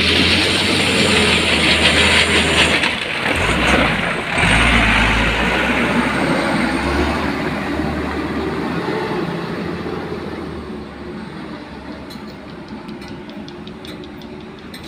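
A diesel truck engine running hard, with a loud hiss of noise over it, briefly dropping off twice about three to four seconds in. In the second half the sound fades steadily away.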